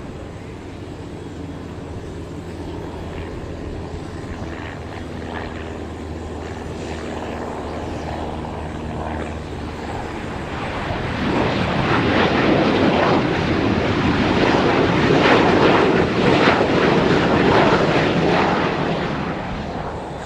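Embraer ERJ-145 regional jet's twin turbofans: a steady engine drone at first, swelling about eleven seconds in to a loud rush of jet noise as it passes, then easing off near the end.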